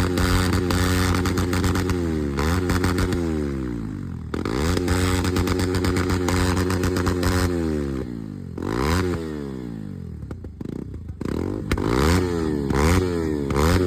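Motorcycle engines revved up and down again and again, with sharp crackles from the exhaust between the revs.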